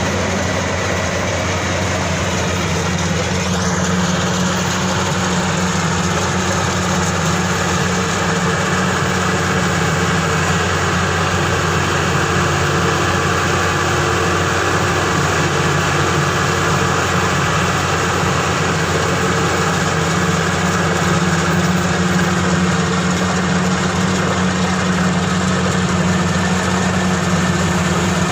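Maxxi Bimo 102 SS rice combine harvester's diesel engine running steadily at an even pitch.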